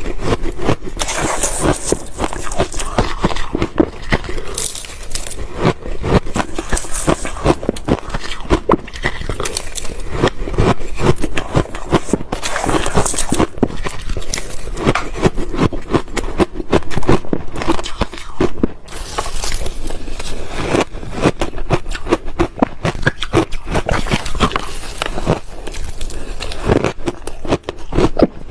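Ice being bitten and chewed, a dense, continuous run of sharp crackling crunches.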